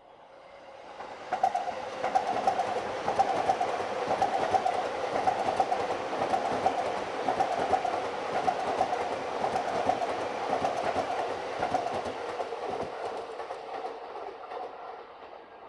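A JR Sobu Line electric commuter train running past on the tracks, wheels rumbling and clicking over the rails with a steady whine. It builds up over the first second and a half and fades as the train moves away near the end.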